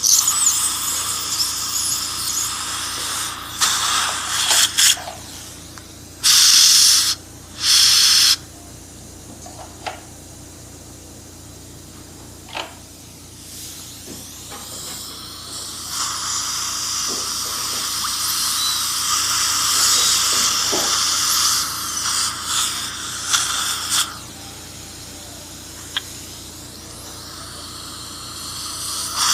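Dental treatment equipment hissing: a dental handpiece and suction run in stretches, with two short, very loud hissing blasts about a third of the way in and a few small clicks in a quieter middle stretch.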